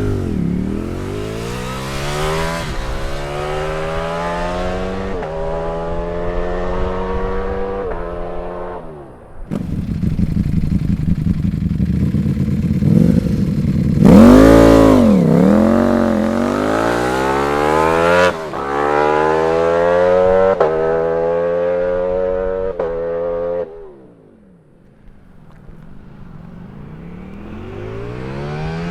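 A 2021 Ducati V4 fitted with a CS Racing aftermarket exhaust, accelerating hard through the gears. The engine note climbs with each pull and drops at each upshift. It is loudest about halfway through, dies away briefly about three-quarters of the way in, then builds again as the bike comes back on the throttle.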